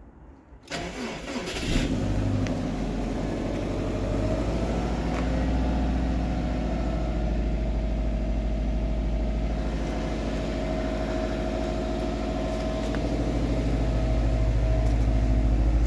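2004 Subaru Forester STi's turbocharged flat-four cranking for about a second on a cold start at -4 °C, catching and settling into a steady fast cold idle that gets a little louder near the end. A steady whine runs over the idle, which the owner puts down to the power steering pump or possibly the alternator.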